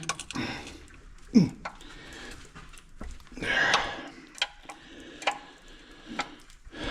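Hand wrench working on a tractor engine's main bearing cap bolts: scattered metallic clicks and knocks. The loudest is a sharp snap about a second and a half in, and there is a short noisy rasp near four seconds.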